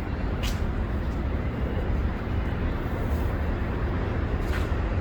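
Steady low rumble of outdoor vehicle noise, with two brief hissing swishes, one about half a second in and one near the end.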